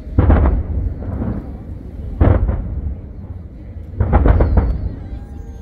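Aerial firework shells bursting in deep booms with rolling rumble. There is a heavy burst just after the start, another at about two seconds, and a quick cluster of bursts around four seconds.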